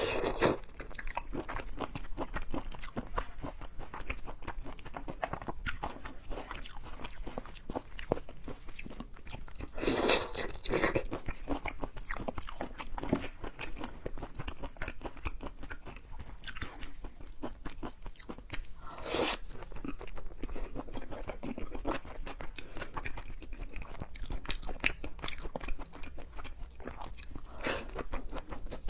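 A person eating seafood close to the microphone: steady chewing and biting, with many small wet clicks and louder crunches about ten, nineteen and twenty-eight seconds in.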